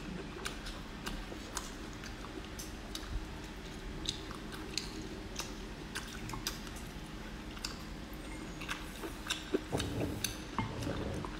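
A person chewing a mouthful of stir-fried green chili peppers and cured pork up close, with many small sharp clicks through it that come thickest near the end.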